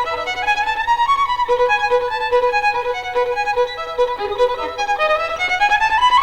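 Violin playing a lively melody of quick short notes, with a rising run near the end.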